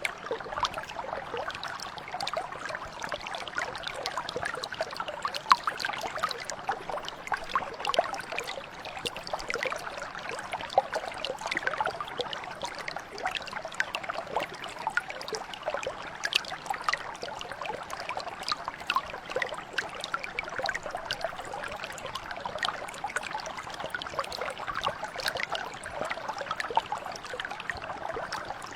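Small mountain brook flowing and trickling steadily, with a continual patter of little splashes and bubbling over rocks.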